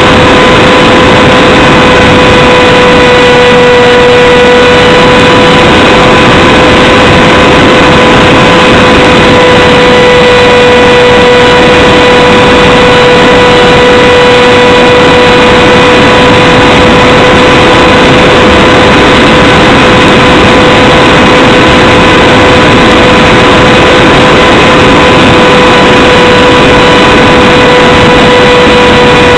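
A steady, high whine with evenly spaced overtones that holds one pitch throughout, over a loud rushing noise that overloads a small camera's microphone.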